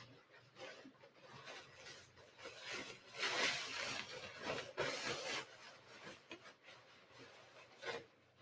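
Fabric rustling and rubbing of an isolation gown being unfolded and pulled on over the arms, in irregular swells, loudest about three seconds in.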